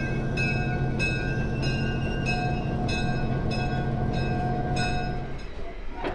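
Locomotive bell ringing steadily, about one and a half strokes a second, over the low hum of the locomotive's engine as the train eases along. The bell and the hum both stop near the end.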